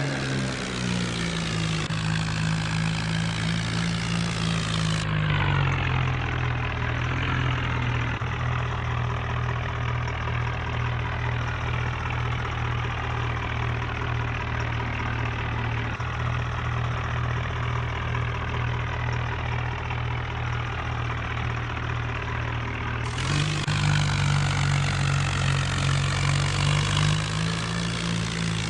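New Holland tractor's diesel engine running steadily while hauling a loaded trolley. Its pitch drops about five seconds in, holds lower, then rises again near the end.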